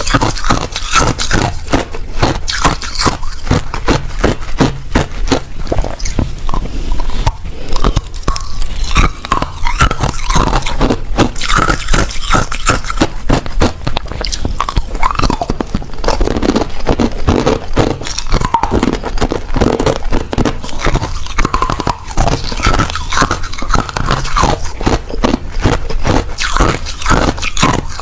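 Ice being bitten and chewed close to the microphone: continuous, rapid crunching and cracking with no pause.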